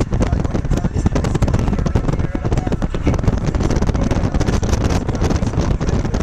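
Wind buffeting the microphone over the steady low rumble of a moving vehicle, dense crackling gusts with no break.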